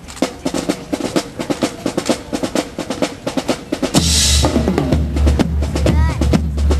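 Marching drums: snare drums playing a rapid cadence of sharp strikes, joined about four seconds in by heavy bass drums and a bright crash.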